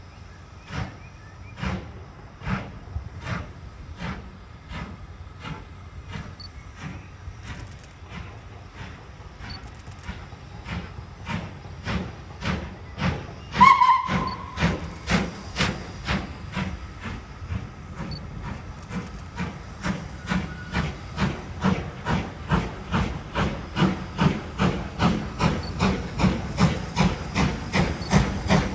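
Steam locomotive exhaust beats, the chuffs growing louder and quicker as it works nearer. About halfway through, a short steam whistle blast.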